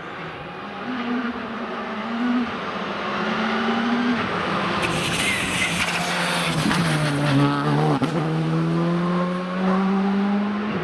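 Rally car engine at high revs through upshifts as it comes through the stage, the pitch climbing and dropping back three times. About seven seconds in the pitch falls away under braking and downshifting, then climbs steadily again as the car accelerates out, with some tyre noise on the road.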